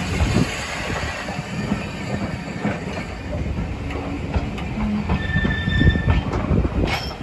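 A train rolling past with a dense low rumble and a run of wheel knocks over the rail joints. A high wheel squeal rings for about a second, around five seconds in.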